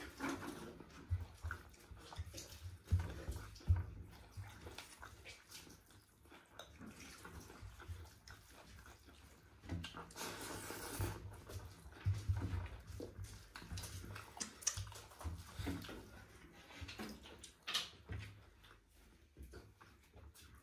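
Close-miked eating sounds: irregular wet chewing, smacking and small clicks of a person eating food, with short quiet pauses between bites.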